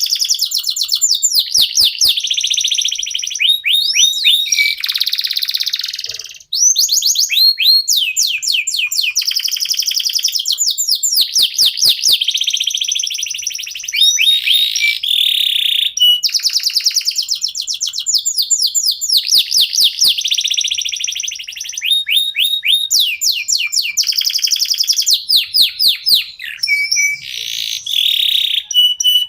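Domestic canary (local Indonesian canary) singing a long, almost unbroken song of fast trills and rolling repeated notes, high-pitched, with one short break about six seconds in.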